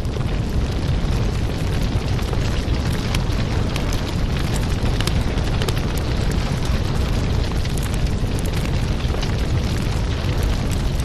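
Wood fire crackling: a steady low rumble of flames with frequent sharp pops and snaps throughout.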